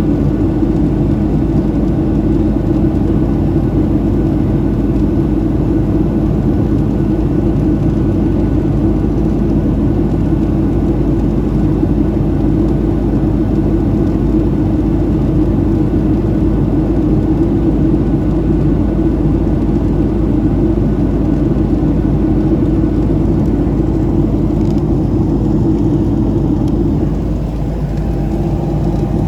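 Cabin noise of a Boeing 737-700 airliner: a steady, loud drone of its CFM56 jet engines and rushing air, easing slightly near the end.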